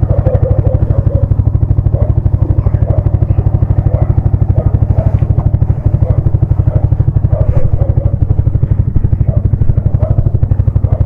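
Yamaha XSR155's single-cylinder engine running steadily at low revs, its exhaust giving an even, rapid pulse with no rise or fall in pitch.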